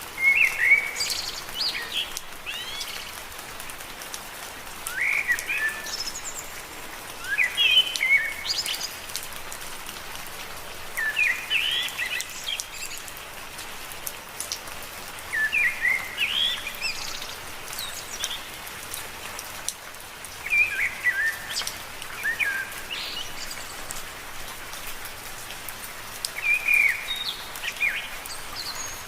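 Steady rain pattering on leaves, with a songbird singing short phrases of quick, sweeping chirps every few seconds over it.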